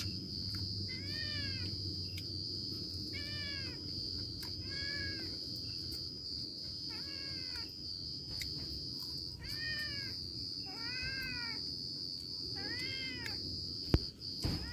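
Domestic cat meowing over and over, about eight rising-then-falling meows, one every second or two, over a steady high-pitched insect drone.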